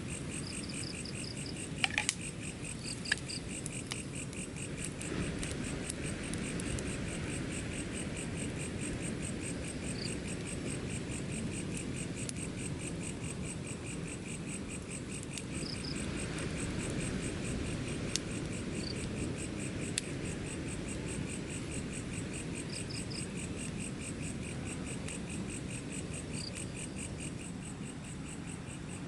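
Crickets chirring steadily in a fast, even pulse over a low steady rumble, with a few sharp clicks about two and three seconds in.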